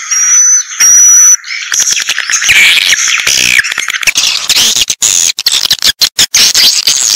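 Recorded swiftlet calls from a lure track for swiftlet nesting houses. Two short, steady, high whistle tones come in the first second and a half, followed by dense, rapid twittering chirps broken by abrupt cuts.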